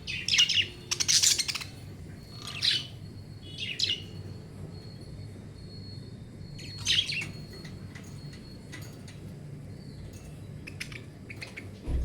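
Budgerigars chirping in short, sharp bursts: a loud flurry at the start, then single chirps every few seconds, over a faint steady low hum.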